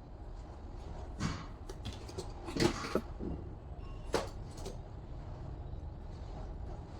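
A few scattered knocks and clatters over a low steady hum; the loudest come a little before three seconds in, with another sharp one at about four seconds.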